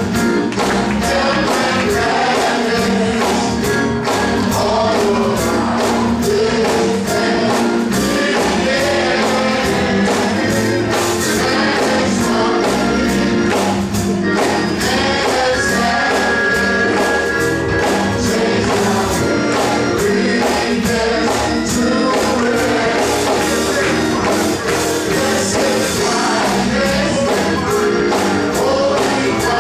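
Gospel choir singing over a band, with percussion keeping a steady beat.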